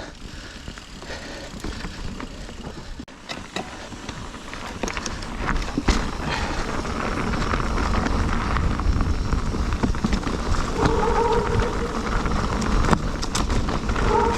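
Mountain bike rolling over a frozen trail: steady tyre and ride noise with scattered rattles and knocks, growing louder as the bike picks up speed. From about eleven seconds in, a steady pitched hum comes and goes.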